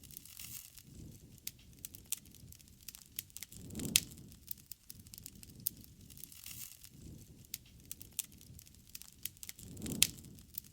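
Wood campfire crackling with constant small snaps, and two louder pops, one about four seconds in and one near the end, each over a brief low swell.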